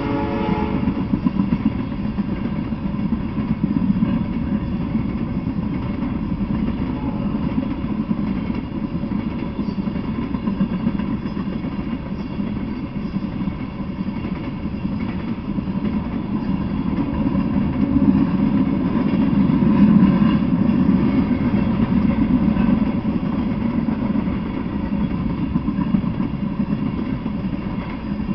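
Freight train of tank cars rolling past, a steady rumble of steel wheels on rail that swells a little about two-thirds of the way through. A horn blast dies away in the first half second.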